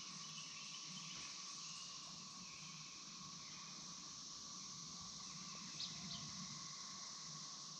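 Faint, steady chorus of insects, with two short high chirps about six seconds in.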